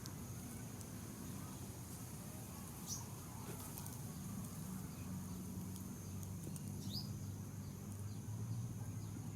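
Outdoor ambience with a steady high-pitched insect drone and a low hum, broken by two short falling bird chirps, about three seconds and seven seconds in.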